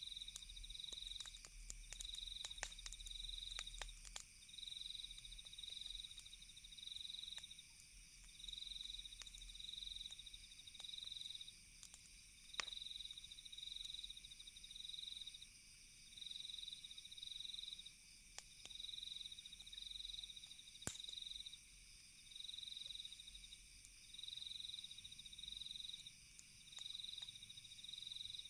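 Crickets chirping in a steady high-pitched trill that pulses on and off about once a second, with scattered sharp crackles and pops of a campfire, a couple of them louder.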